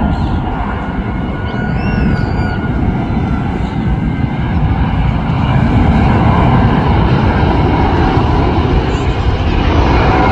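Jet airliner on landing approach, its engines rumbling, growing louder about halfway through as it comes closer.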